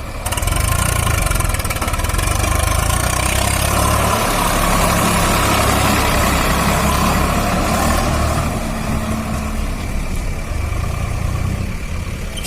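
Tractor engine running steadily. It gets louder about half a second in and eases off a little after about eight seconds.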